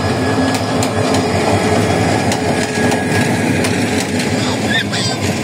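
Diesel-hauled passenger train passing close by: the locomotive's steady engine drone, then the coaches rolling past, with scattered sharp clicks over the running noise.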